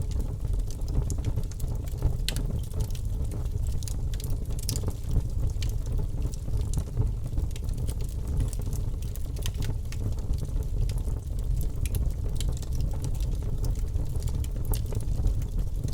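Wood fire crackling: frequent small sharp pops over a steady low rumble.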